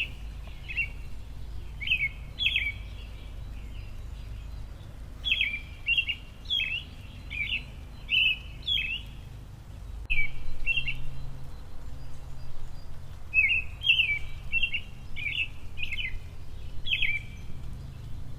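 Small songbirds chirping in quick clusters of short, sharp notes, with brief pauses between the clusters, over a steady low rumble.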